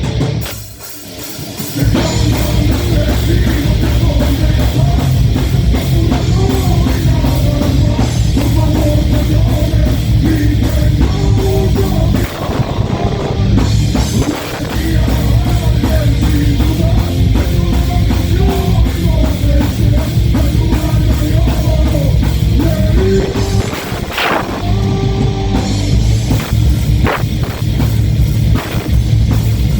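A live heavy metal band playing: distorted electric guitars, bass and a drum kit. The sound drops briefly about a second in, then the full band comes back in.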